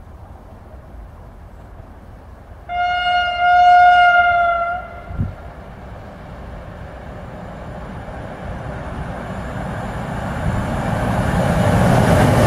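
An approaching freight train's electric locomotive sounds its horn in one steady blast of about two seconds. After that the rumble of the train grows steadily louder as it nears.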